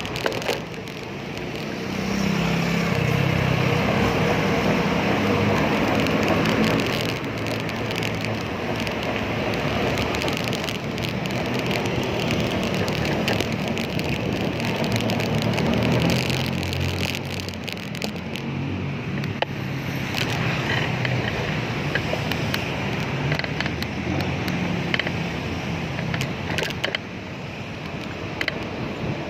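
Road traffic heard from a moving bicycle: engines of passing cars and other vehicles swell and fade over a steady road noise. There are louder passes about two seconds in and again around the middle.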